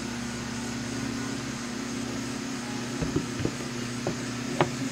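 Steady low machine hum, with a few light clicks and knocks in the second half.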